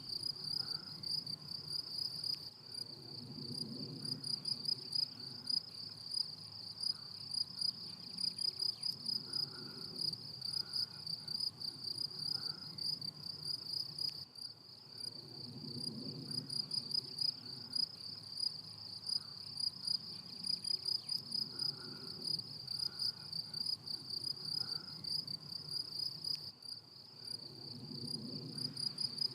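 Crickets singing: a steady, shrill, high chirring with a fast pulse, unbroken throughout. Fainter low sounds swell and fade every few seconds beneath it.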